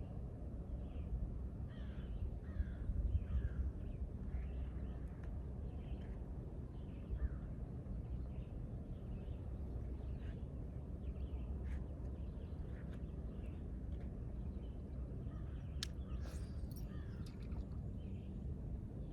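Birds calling over and over in short, crow-like calls, over a steady low background rumble, with a few sharp clicks later on.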